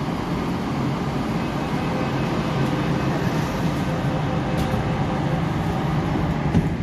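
Steady hum and rumble of an MTR K-Train carriage standing at a platform while its passenger doors close, with a faint run of beeps in the middle and a short knock near the end.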